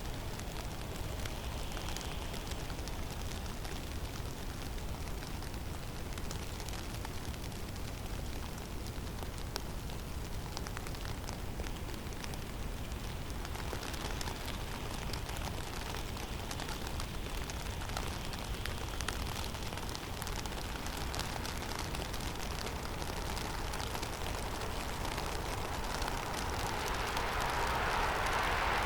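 Blizzard wind in a snowy forest: a steady rushing hiss over a low rumble, with scattered faint ticks. A louder gust swells in near the end.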